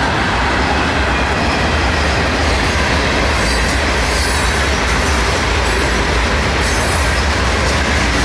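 Freight train's open-top hopper cars rolling past, a loud, steady rumble of steel wheels on rail.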